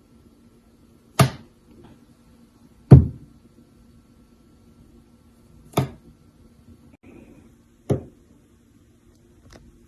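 Four sharp knocks or taps at uneven intervals of two to three seconds, over a faint steady hum.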